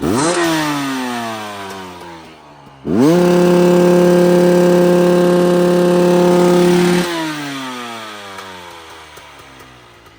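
LAWCR LC300X 300 two-stroke dirt bike engine revved: a quick blip at the start that winds down over about two seconds, then the throttle opened again and held wide open at a steady high pitch for about four seconds before it is released and the revs fall slowly.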